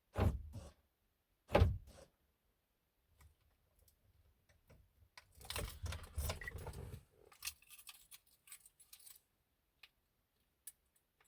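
Keys and key fob being handled: two sharp knocks in the first two seconds, then a burst of keys jangling around the middle, followed by scattered small clicks.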